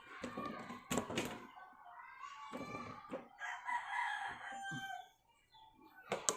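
Chickens calling, with a rooster crowing, as pitched, gliding calls through the middle. There are sharp knocks about a second in and near the end.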